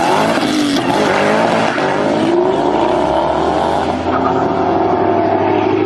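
A sports car's engine accelerating hard, its pitch climbing, dropping back about two seconds in as it shifts up, then climbing again and holding high.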